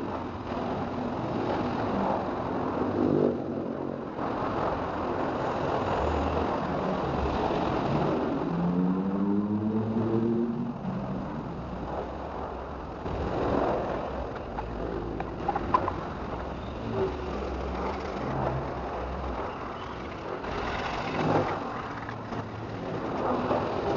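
Motor vehicle engine noise throughout, with one engine rising in pitch as it speeds up about nine seconds in, and a few short knocks.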